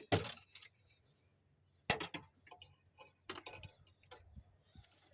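Scattered sharp clicks and light ticks of hands working wiring and parts through a tight opening in a pickup truck: one at the start, a louder one about two seconds in, then a run of smaller ticks.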